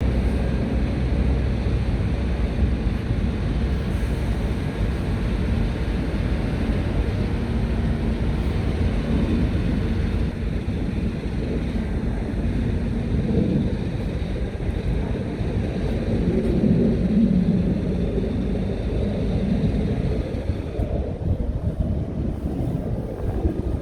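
Scania R tractor unit's diesel engine running steadily, its pitch rising and falling a few times past the middle.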